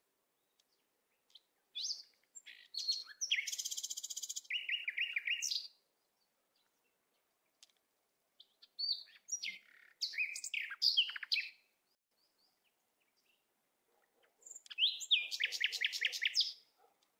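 A small songbird singing in three bouts of quick chirps and rapid trills, a few seconds apart.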